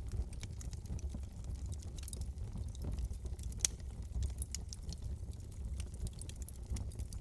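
Wood fire crackling in a fireplace: irregular sharp pops and snaps over a steady low rumble of burning, with one louder pop about halfway through.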